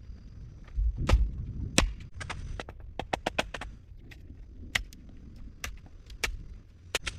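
Wood being worked by hand: a run of sharp wooden clicks and cracks, with two heavier thuds about a second in and near two seconds.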